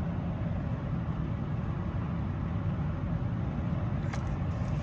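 Steady low rumble of a car engine idling, with a short click about four seconds in.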